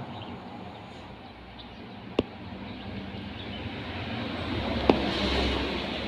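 Steady outdoor background noise with a low rumble that swells about four to six seconds in, like a vehicle passing, and two sharp clicks, one about two seconds in and one near five seconds.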